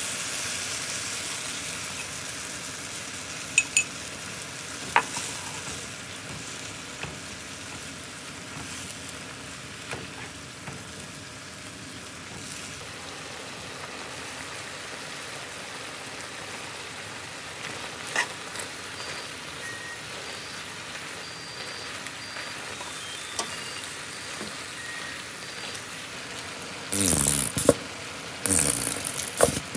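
Thin-sliced pork sizzling in a frying pan as grated onion is poured in and stirred with metal tongs. The sizzle is loudest at the start and eases over the first several seconds, with a few sharp clinks of the tongs. Two louder bursts of stirring noise come near the end.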